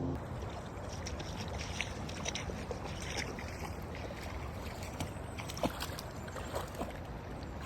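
Stream water running, with small irregular splashes and clicks.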